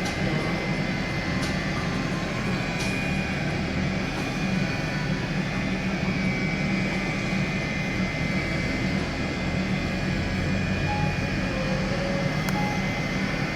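Steady hum and rush of a parked McDonnell Douglas MD-88's cabin air supply heard inside the cabin, with a low drone and a faint high whine, the engines not yet started. A few faint clicks.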